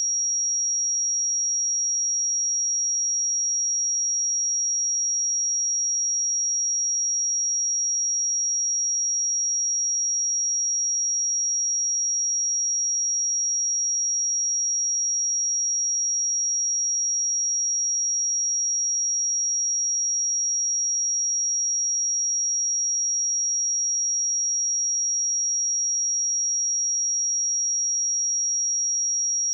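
A steady, high-pitched pure sine-wave test tone at 5663 Hz, one unwavering pitch.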